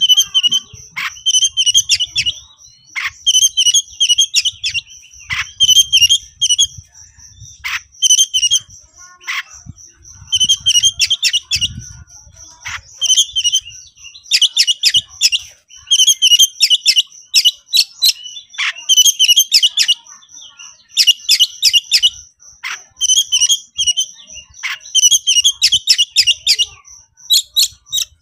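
Oriental magpie-robin (kacer) singing in an agitated, fighting mood: repeated bursts of fast, high chattering song phrases with short gaps, broken by single sharp downward-sliding whistles. A steady high-pitched tone runs underneath throughout.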